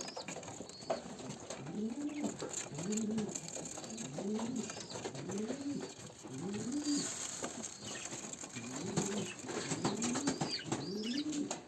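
A bird's low cooing notes, each rising and falling, repeated about once a second, with a few faint high chirps among them.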